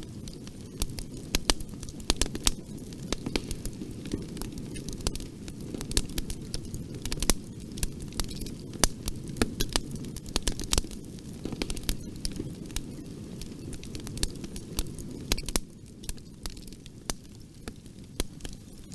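Wood fire in a fireplace crackling, with frequent irregular sharp pops and snaps over a steady low rush of the flames.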